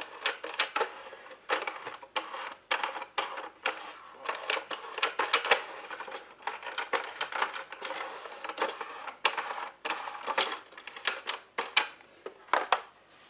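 Small plastic toys being handled, making rapid, irregular clicks and rattles that stop near the end.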